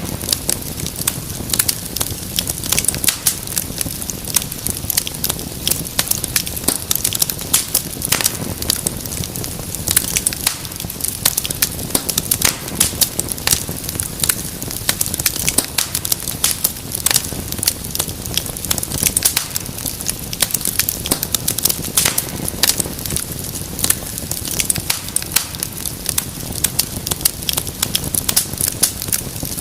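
Fireplace fire crackling steadily: a dense, irregular run of sharp pops and snaps over a low, steady rush of flame.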